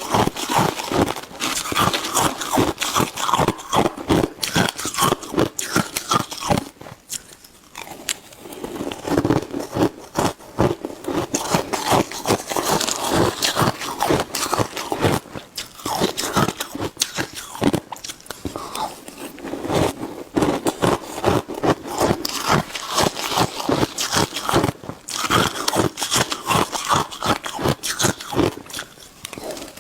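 Shaved ice being bitten and chewed close to the microphone: a dense, rapid run of crisp crunches, with a short lull about seven seconds in.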